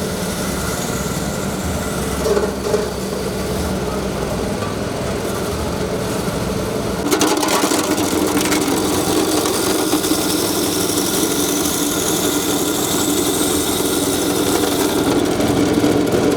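Ice crusher machine running steadily. About seven seconds in, its sound turns louder and rougher, with scattered short clicks, and stays that way to the end.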